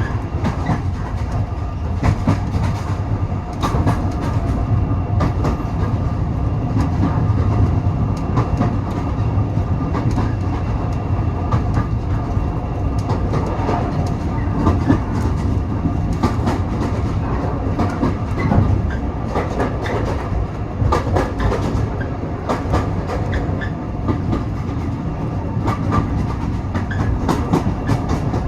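Railway carriage running along the line: a steady rumble of the coach with repeated clicks of the wheels over the rail joints.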